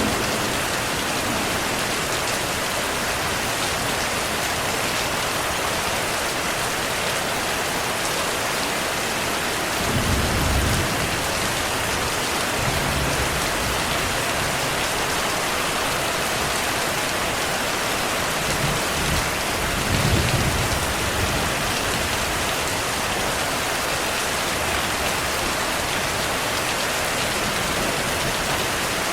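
Steady heavy rain, a dense even hiss, with soft low rumbles of distant thunder swelling briefly about a third of the way in and again around two-thirds of the way through.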